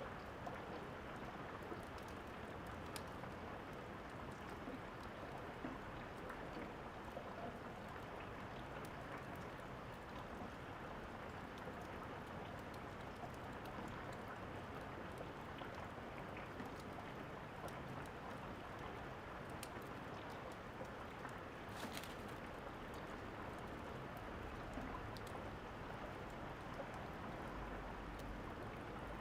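Steady rain falling, with scattered sharp crackles of a fireplace over it and one stronger crack a little past the middle.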